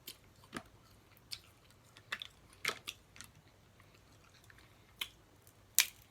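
Close-miked eating of snow crab legs: quiet chewing broken by about seven short, sharp clicks and cracks, the loudest near the end.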